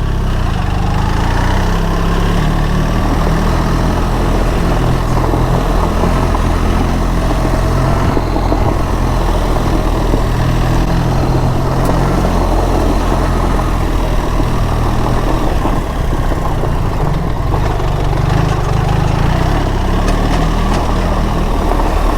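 BMW R 1300 GS's boxer-twin engine running under the rider at low, gently varying revs, with a steady low rumble as the bike rides slowly along a dirt trail.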